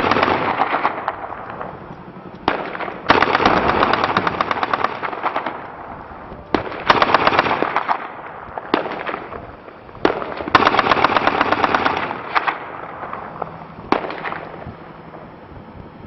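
Bursts of automatic machine-gun fire: rapid, evenly spaced shots in long bursts of one to two and a half seconds, several in a row, with shorter bursts in between.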